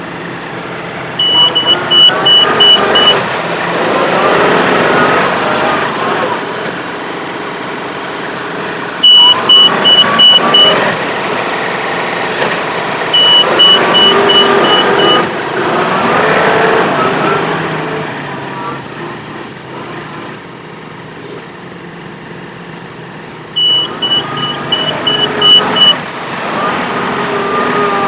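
Tractor engine running and revving up in repeated surges, with a rapid high-pitched beeping of about four beeps a second during several of the surges.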